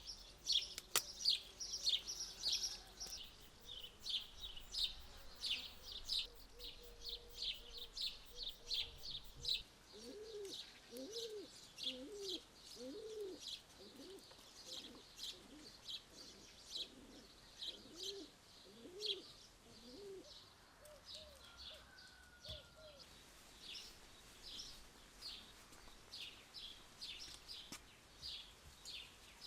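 Small birds chirping steadily, short high notes a few times a second, while a dove coos a series of low calls for about ten seconds in the middle.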